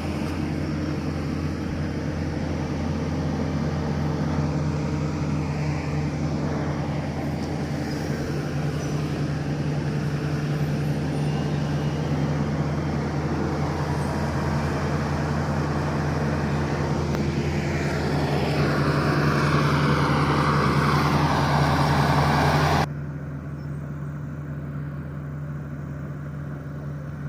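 Diesel engine of a heavy earthmoving machine running steadily. Near the end a louder rushing noise with a wavering whine builds up, then cuts off suddenly, leaving the steady engine drone.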